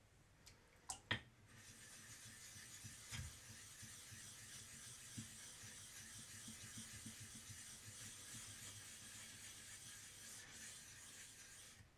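Naniwa dressing stone rubbed back and forth over a whetstone to flatten it: a faint, steady gritty scraping. It starts after a couple of clicks about a second in and stops just before the end.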